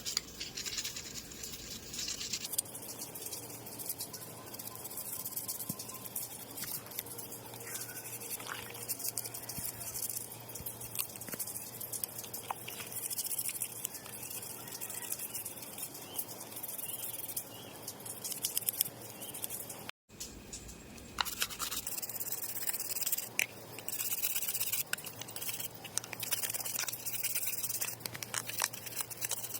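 Small plastic toy parts being handled and pried apart by hand: irregular light clicks, scrapes and rattles.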